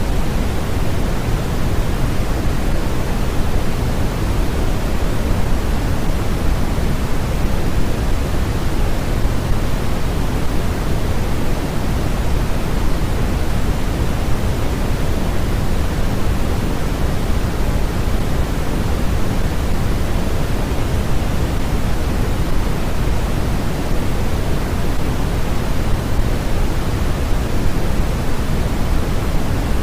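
Steady, unchanging synthetic noise, a continuous hiss heavier in the low end and softer toward the top, more like pink noise than true white noise.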